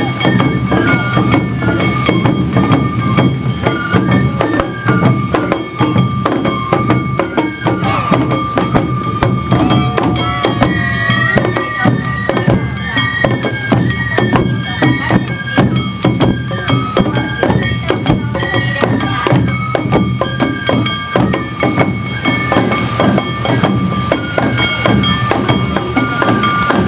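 Awa Odori festival band playing the dance music live: a bamboo flute carries a stepping melody over steady strokes of drums and a struck metal hand gong.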